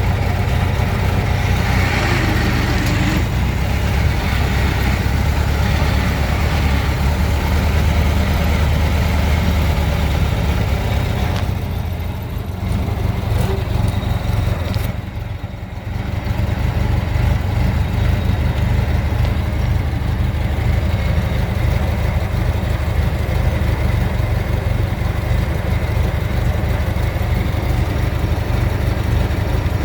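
1927 Ford Model T's freshly rebuilt four-cylinder engine idling steadily after its start-up. Its level dips for a few seconds about halfway through, then it settles back to the same steady running.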